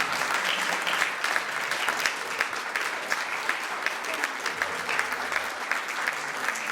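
Audience applauding, a dense run of hand claps that thins out toward the end.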